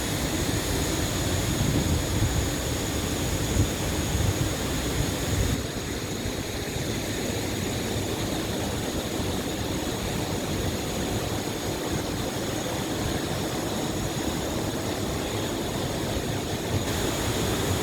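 Rushing stream water, a steady noisy wash heavy in the low end, with a thin steady high-pitched tone over it.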